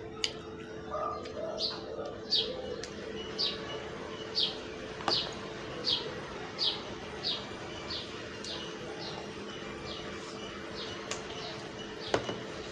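A bird chirping over and over, short high calls each falling in pitch, about one and a half a second. Under it a steady low hum, and a few sharp clicks, the loudest near the end.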